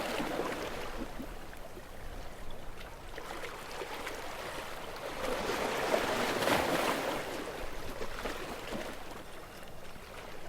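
Gentle sea waves washing in, one swell building to a peak past the middle and then receding.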